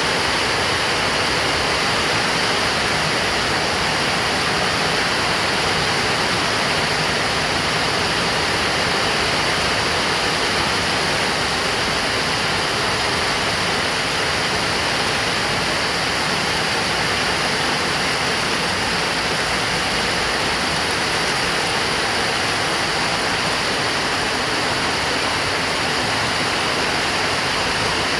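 Heavy rain pouring steadily, a dense, unbroken hiss.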